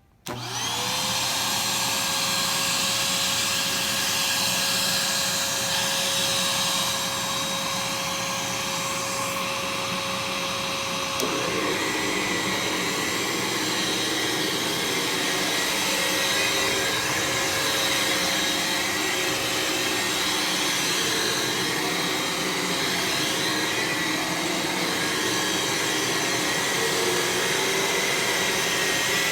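Aerus Lux commercial upright vacuum cleaner switched on: its motor spins up within half a second to a steady whine and keeps running. About eleven seconds in, its sound turns rougher and less even.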